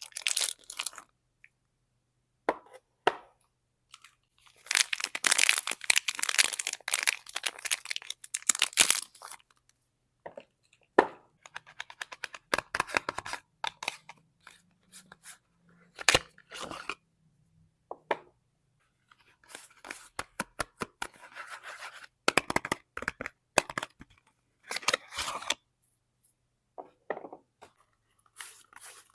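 Soap packaging being unwrapped by hand: wrappers tearing and crinkling in irregular bursts. The longest, loudest stretch comes about five to nine seconds in, followed by short crackles and taps with quiet gaps between them.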